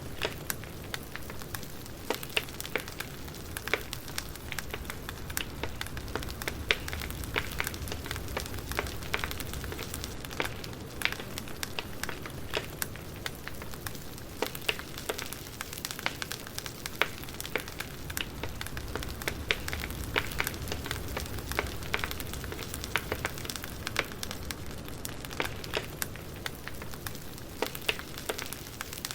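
Wood fire burning with continual irregular crackles and pops over a soft low rumble of the flames.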